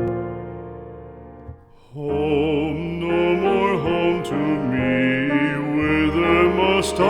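A piano chord dies away, then about two seconds in a classically trained voice starts singing with strong vibrato over piano accompaniment: an art song.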